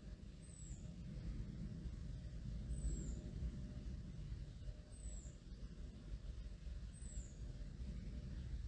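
Low, steady rumble of a distant airplane overhead, swelling a little about three seconds in. Over it a small bird gives a very high, thin call that slides downward, four times about two seconds apart.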